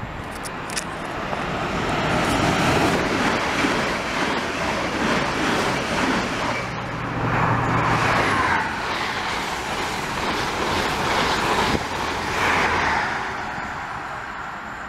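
Train noise on the main line: a steady rush of wheels on rail that swells a couple of seconds in and eases near the end, with a low hum for a couple of seconds midway.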